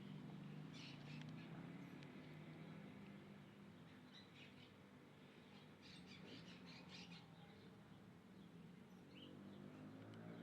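Small birds chirping faintly in two quick runs of short high chirps, one about a second in and a longer one around six seconds in. A low steady hum runs underneath.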